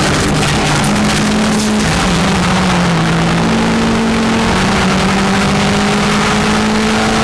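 Racing car engines running at speed on a circuit, the engine note stepping up and down several times, with a slowly rising higher tone above it.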